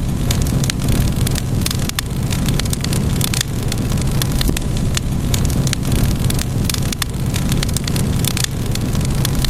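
Wood fire crackling in a fireplace: a steady low rumble of burning with many sharp, irregular pops and snaps of the wood.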